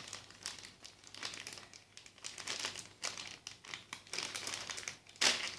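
Packaging of a toy construction set being handled, with irregular crinkling and rustling. A louder crinkle comes near the end.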